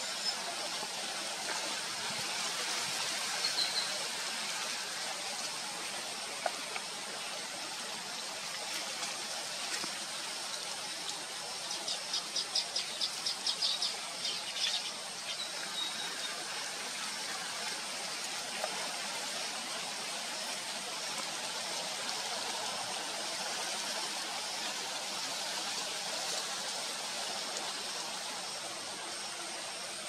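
Baya weaver chirping, a quick run of about ten sharp high notes from about twelve to fifteen seconds in, over a steady background hiss with a thin high steady whine.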